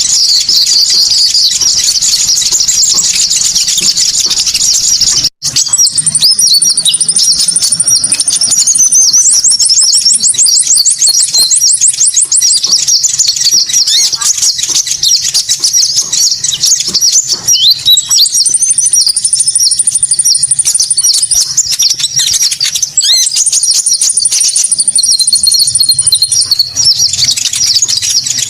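Bird-lure recording of small birds, sold as a konin lure, chirping and trilling densely and continuously at a high pitch, with sustained high whistled notes and a fast buzzy trill that come and go. There is a sudden brief dropout about five seconds in, like a splice in a looped track.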